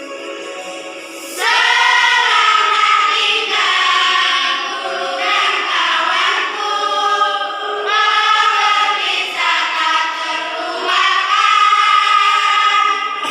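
Children's choir singing over a quieter instrumental accompaniment, the voices coming in about a second and a half in and carrying on in long phrases.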